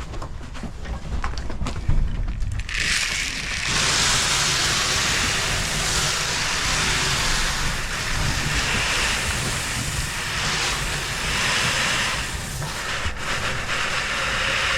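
Farm tractor engine running with a low steady rumble. About three seconds in, a loud steady rushing hiss starts and holds until it cuts off near the end.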